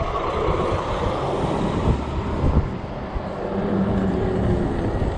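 Gusty wind buffeting the microphone of a moving fat-tire e-bike, a dense steady rumble with road noise underneath.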